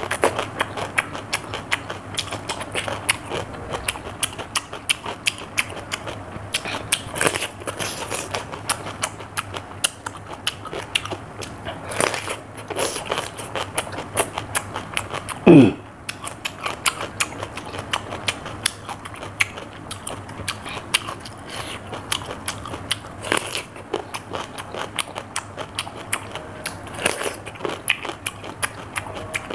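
Raw cucumber being bitten and chewed: crisp crunching with a steady run of wet chewing clicks. About halfway through, one short sound sliding down in pitch is the loudest moment.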